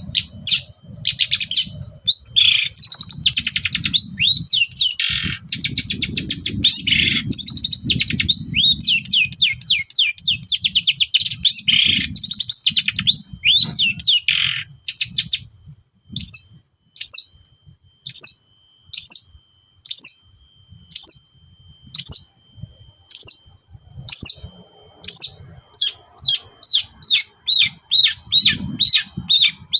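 Long-tailed shrike (cendet) singing loudly. The first half is dense, rapid chattering and trills; then come sharp single notes about once a second, quickening to several a second near the end. A low rumble runs underneath the first half.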